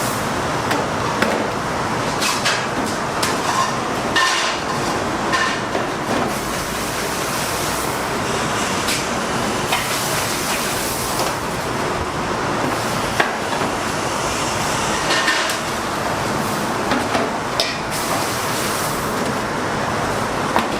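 Busy kitchen work: a steady rushing noise with frequent clattering knocks and clicks throughout.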